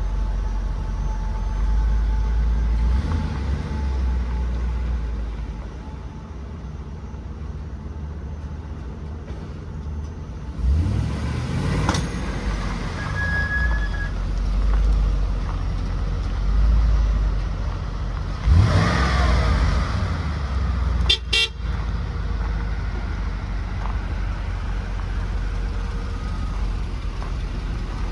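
2014 Isuzu NPR's 6.0L LPG engine idling, revved up twice, with a short toot of the truck's horn about 21 seconds in.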